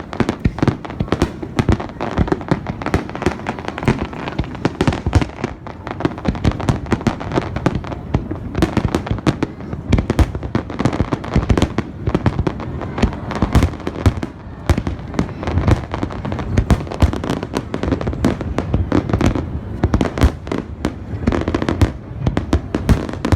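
Fireworks display, a rapid, irregular barrage of bangs and cracks with rolling echoes, many bursts a second with no pause.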